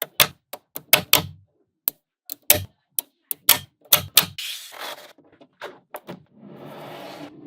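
Small neodymium magnetic balls snapping onto one another in sharp, irregular clicks, about two or three a second, as a model is built from them. Over the last second or so there is a steadier rattling, scraping sound of the balls shifting against each other.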